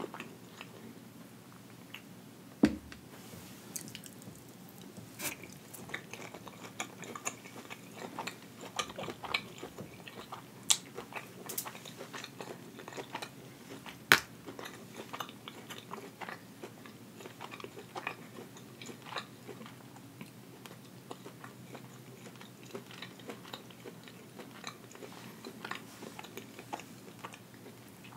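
Chewing and biting of hibachi steak, shrimp and chicken, soft wet mouth sounds throughout. Scattered sharp clicks and taps from the fork and dishes, the loudest about 3 and 14 seconds in.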